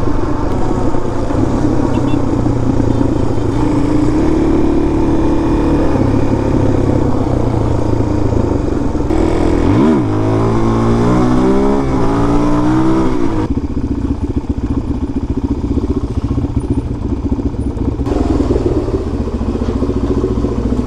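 Single-cylinder dirt bike engine running on a trail ride, with the revs rising and falling sharply for a few seconds about halfway through, then settling back to a steadier run.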